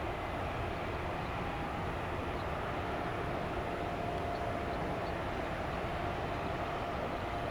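Steady rumble of airliner jet engines running, with a faint steady whine over it.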